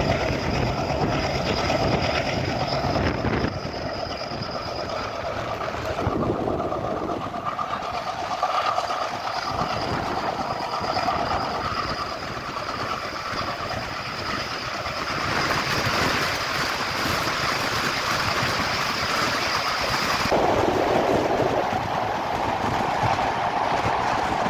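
Express train running on the track, heard from aboard a coach: a steady rumble of wheels on rail with some clickety-clack and held ringing tones from the running gear. About twenty seconds in, the sound changes abruptly as the train enters a tunnel.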